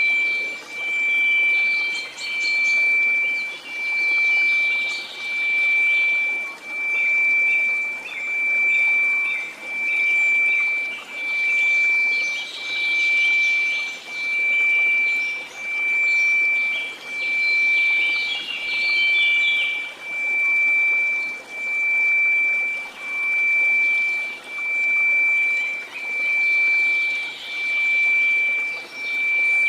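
A steady 2334 Hz sine tone that swells and fades about once every second and a half, over a faint hiss of white noise.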